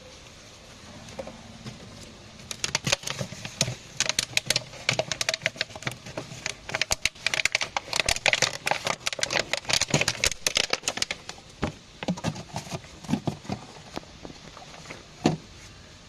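Rapid, irregular clicking and rattling of hand work on a car, with one sharper knock near the end.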